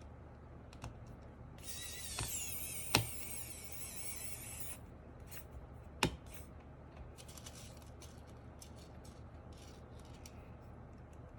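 Hands working on mechanical keyboard parts: a few seconds of squeaky scraping or rustling, two sharp clicks about three seconds apart, then a run of light ticks.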